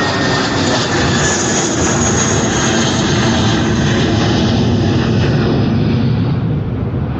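Jet airliner's engines at takeoff power, loud, with a high whine over a deep rumble. The whine fades about six seconds in, leaving the low rumble.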